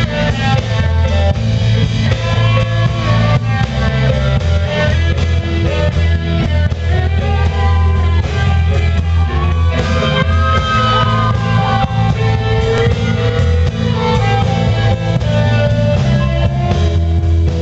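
Rock music: guitars over a heavy bass line, with sliding, bending notes in the middle.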